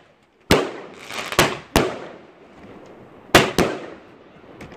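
Fireworks going off: about five sharp bangs in two quick clusters, each trailing off in a short echoing tail.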